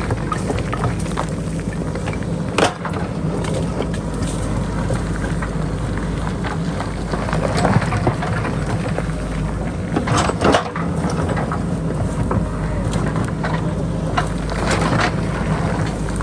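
JCB backhoe loader's diesel engine running steadily under load while it digs, with sharp knocks of the bucket striking rock about three seconds in and again about ten seconds in.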